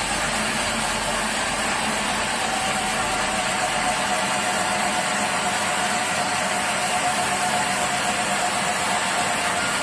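Sawmill machinery running steadily with an even, engine-like drone. A faint whine comes in a couple of seconds in and slowly sinks in pitch.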